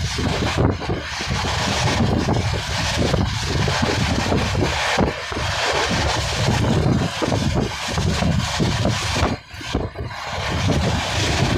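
Wind buffeting the microphone from a moving passenger train, over the steady rumble of the train running. The wind noise briefly drops about nine and a half seconds in.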